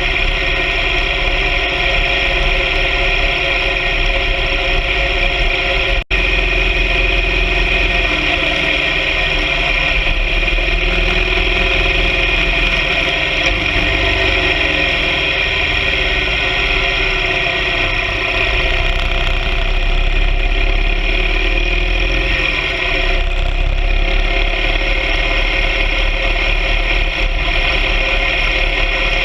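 Motorcycle engine, the boxer twin of a BMW R 1200 GS Adventure sidecar rig, running steadily and loudly. It cuts out for an instant about six seconds in.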